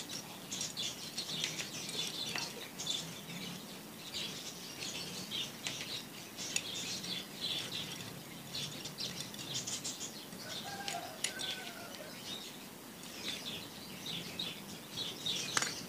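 Small birds chirping in the background: many short, high chirps in quick succession, with a brief lower call about ten seconds in.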